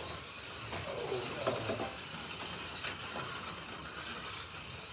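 Slot.it slot cars running laps on the track: a steady, sizzling hiss of their small electric motors, gears and pickup braids.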